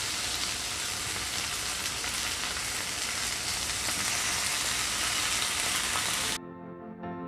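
Food sizzling as it is stir-fried in a hot wok, a steady dense hiss. About six seconds in it cuts off suddenly and soft music begins.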